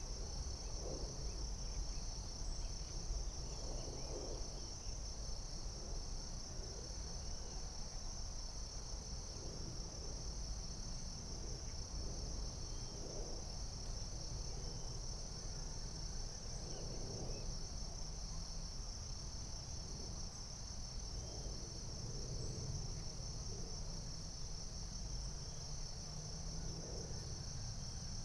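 Insects, crickets among them, keep up a steady chorus of one continuous high-pitched trill. Faint lower sounds come and go every second or two under a low background rumble.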